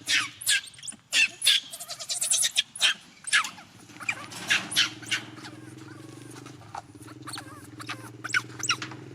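Baby macaque crying: many short, shrill cries that fall in pitch, several a second at first, then more sparse. From about four seconds in, a small motorbike engine runs steadily underneath.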